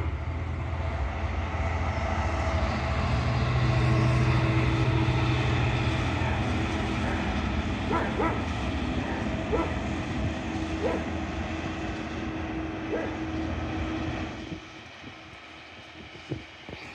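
DB Cargo Class 66 diesel locomotive with its two-stroke EMD V12 engine working past at the head of a freight train of biomass hopper wagons: a heavy low engine note, strongest about four seconds in, over the rumble of the wheels on the track. A few short sharp sounds stand out in the middle, and the noise drops off sharply near the end as the locomotive moves away.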